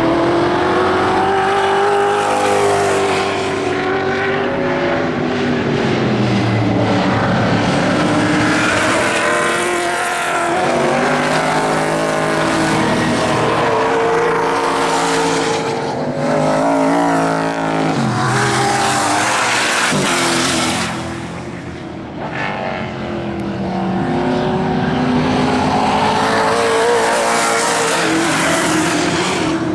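Muscle cars racing, several engines revving up and falling back through gear changes as they pass. The sound dips briefly about two-thirds of the way through, then builds again.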